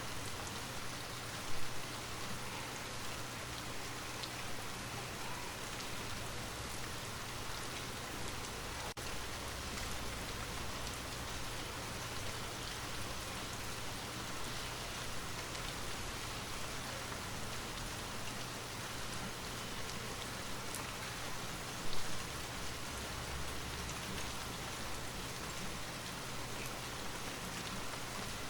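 Steady rain falling, an even hiss with scattered drop patter, with two brief louder bumps, one about two seconds in and one about twenty-two seconds in.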